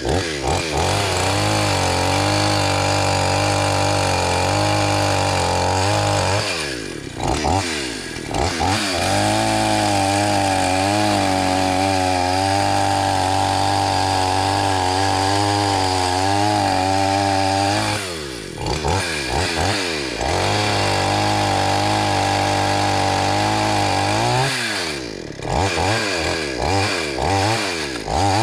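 Two-stroke chainsaw running at high revs while cutting through a log. The pitch drops briefly and comes back three times, about a quarter, two-thirds and most of the way through, as the throttle is eased and opened again between cuts.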